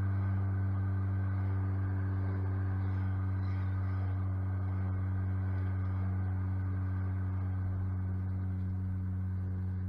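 Supercharged Honda K24Z3 2.4-litre four-cylinder engine cruising at steady revs, a constant even-pitched drone heard from inside the car's cabin.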